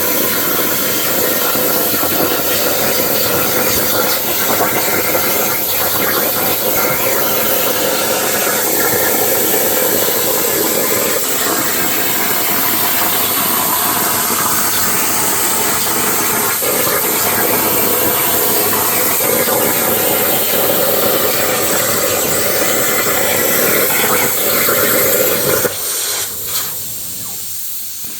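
Plasma torch of a CNC plasma cutting table cutting through a steel saw blade: a loud, steady hiss that cuts off near the end as the arc shuts off.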